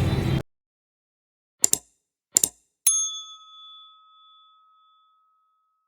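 Background music cuts off; two quick double clicks follow, then a single bell ding that rings out and fades over about two seconds.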